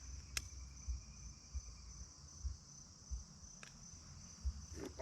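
Crickets chirping in a steady, fast-pulsing high trill, with irregular low rumbles and two sharp clicks, one early and one a little past halfway.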